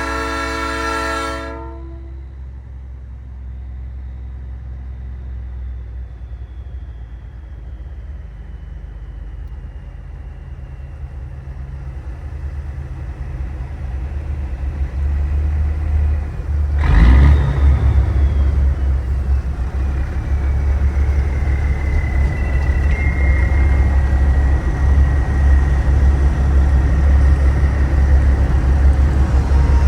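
A Nathan Airchime P3 train horn on a big rig sounds a chord and cuts off about a second and a half in. After that the truck's diesel engine runs with a low drone that grows louder, with a short noisy burst about halfway through and a faint whistle falling in pitch.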